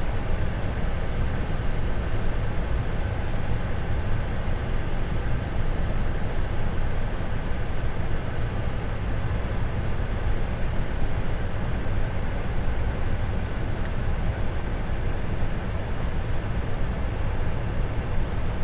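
Steady flight-deck noise of a Boeing 747-400 on approach: airflow and aircraft systems producing an even rushing sound, heaviest in the low end, with faint steady tones above it.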